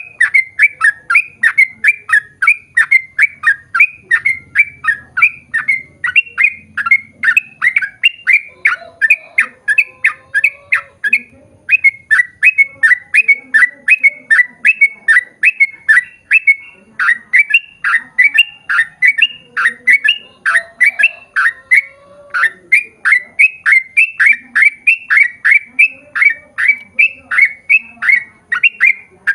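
Yellow-vented bulbul (trucukan) singing a long, fast run of short chattering notes, about three or four a second, with a brief break about eleven seconds in.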